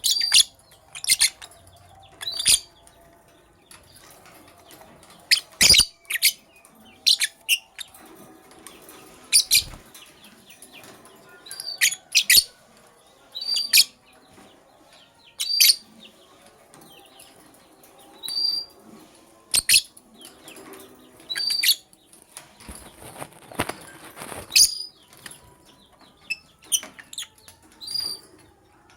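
Pet lovebirds giving short, shrill chirps every second or two, with a brief stretch of rustling about three-quarters of the way through.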